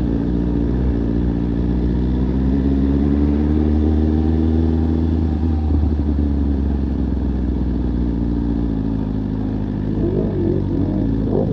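Motorcycle engine running at a steady low pace, its pitch rising and falling gently. A wavering higher sound joins near the end.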